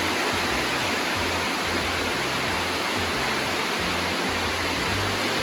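Heavy rain falling on a barn roof: a steady, even hiss.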